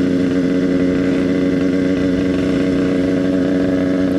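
Yamaha RX-King two-stroke single-cylinder motorcycle engine running at a steady speed while being ridden.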